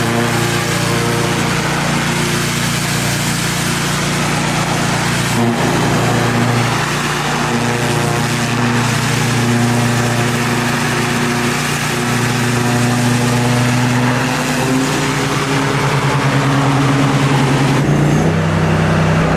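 Gas-engine pressure washer running steadily under an even hiss of spray. There is a brief knock about five seconds in, and the engine note shifts near the end.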